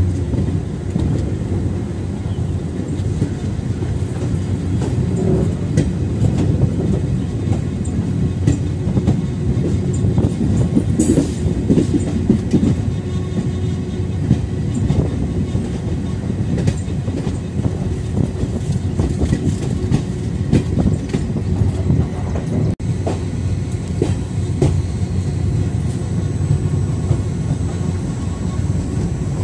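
Passenger train coach running on the track: a steady low rumble with wheels clicking and clattering over the rails.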